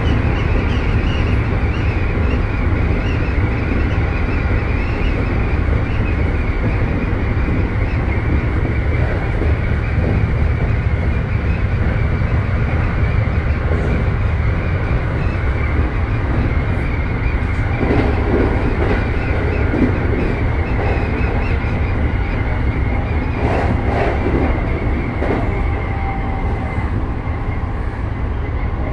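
Keikyu 1000 series electric train with Mitsubishi IGBT-VVVF control running between stations, heard inside the passenger car: a steady, loud, deep rumble of wheels on rails and car body.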